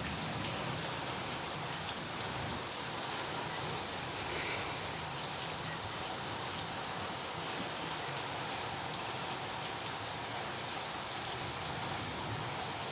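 Heavy rain falling steadily, a constant hiss of downpour.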